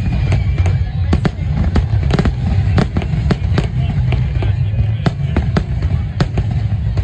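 Fireworks going off in quick, uneven succession: sharp bangs about two to three a second over a continuous low rumble.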